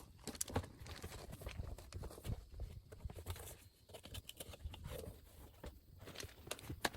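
Irregular light knocks and clicks, spaced unevenly, from hand work on a large tire.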